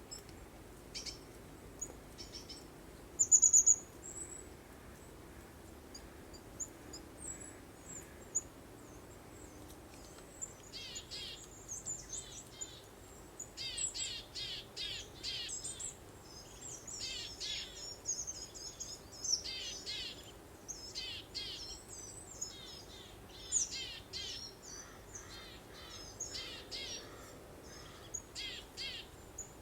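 Songbirds singing and chirping. There are a few scattered high chirps at first, one of them loud about three seconds in, then from about ten seconds in busy runs of quick repeated notes from more than one bird, over a faint steady background hush.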